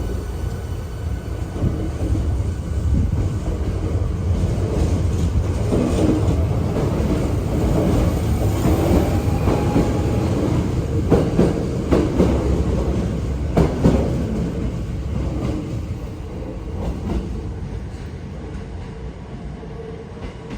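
Hankyu electric commuter train running, heard from on board: a steady heavy rumble of wheels on rail with sharp clacks over rail joints, loudest in the middle and easing off near the end.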